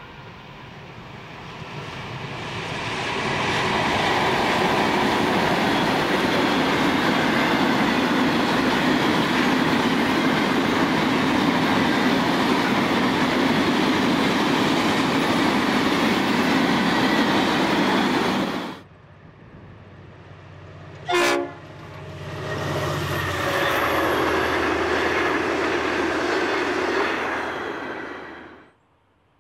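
Gravel hopper wagons rolling past behind X class diesel locomotives: a loud, steady rush of wheels clattering over the rail joints that builds over the first few seconds. It cuts off abruptly about two-thirds of the way through. After a short sharp sound, a second stretch of train noise with a low hum runs on and fades out near the end.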